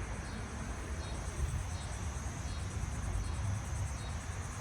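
Insects chirring steadily in a high, finely pulsing drone, over a low rumble of wind or handling noise.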